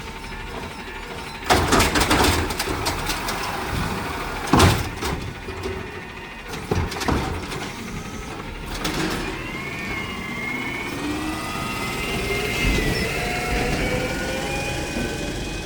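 Garbage truck at work: three sharp metal bangs in the first seven seconds, then a rising whine as the engine and hydraulic pump rev up under load.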